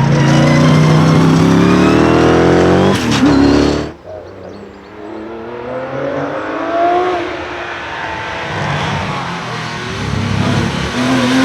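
Race car engines accelerating hard at a hillclimb, the pitch climbing through several gear changes. About four seconds in the sound cuts off abruptly, and a fainter car is heard accelerating up the hill, its pitch rising again.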